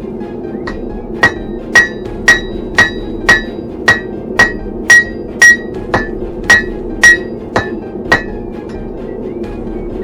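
Blacksmith's hammer striking steel on an anvil, about two ringing blows a second, stopping near the end. Under it runs the steady roar of the forge.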